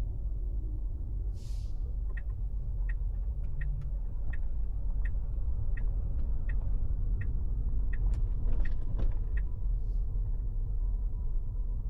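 Steady low road and engine rumble inside a moving car, with the turn-signal indicator ticking evenly about one and a half times a second for several seconds from about two seconds in. A short hiss comes just before the ticking starts and another near the end.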